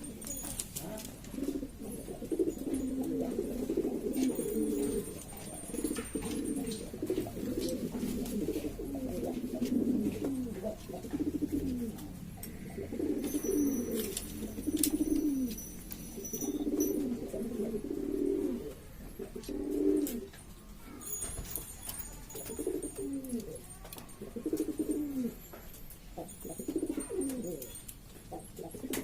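Several domestic pigeons cooing at once, a continuous overlapping chorus of low, repeated coos that bend down in pitch.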